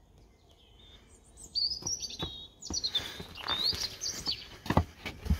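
Small birds chirping and tweeting in quick rising and falling calls, starting about a second and a half in, with a few short knocks among them, the loudest near the end.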